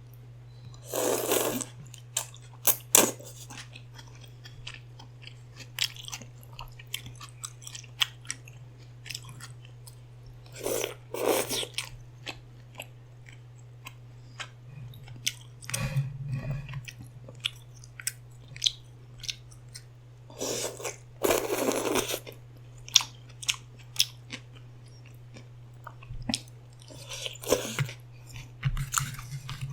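Close-miked eating: bites and chewing with sharp mouth clicks, and a few louder noisy bursts about a second long, over a steady low hum.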